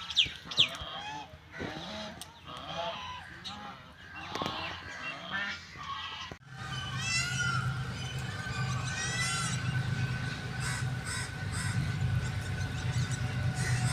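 Birds calling: a run of short calls, then after a sudden cut about six seconds in, repeated high chirping calls over a steady low hum.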